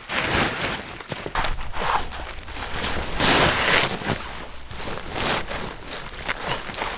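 Irregular crunching and rustling with scattered knocks, louder about a third of the way in and again near the end.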